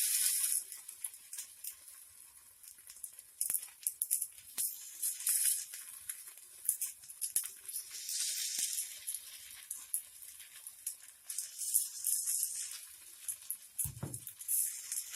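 Paniyaram batter sizzling in oil in the wells of a paddu pan as the dumplings are turned, a hiss that swells and fades in waves, with light clicks and a low knock near the end.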